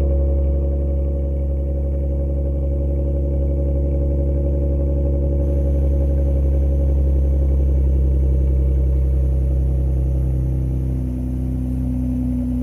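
Dodge Journey's engine idling steadily shortly after a cold start; its note shifts slightly near the end.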